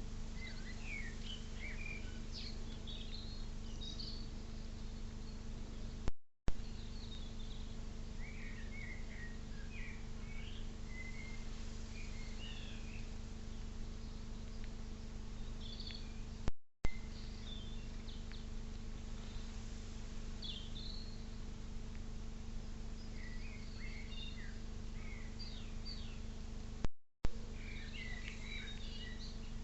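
Small birds chirping and twittering, many short calls scattered throughout, over a steady low hum. Three times, about ten seconds apart, the sound cuts out briefly with a click.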